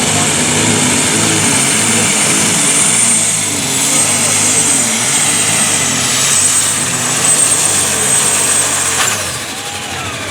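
Alcohol-burning super stock pulling tractor under full power down the track: the engine runs hard under load, its pitch wavering as the tractor bounces, with a high turbocharger whine over it. The whine falls away about nine seconds in as the power comes off.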